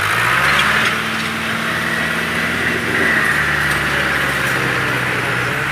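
Tractor diesel engine picks up revs right at the start, then runs steadily at raised revs with a high whine over it.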